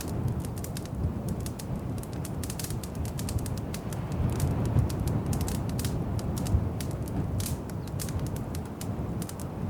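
Wood fire crackling in a fireplace: irregular sharp pops and snaps over a steady low rumble of the burning logs, with a louder pop about five seconds in and another near six and a half seconds.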